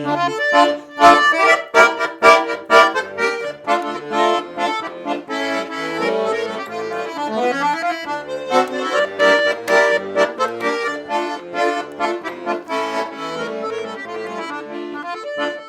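Button accordion playing an instrumental interlude of a Russian folk-style song: a fast melody over chords, with no singing.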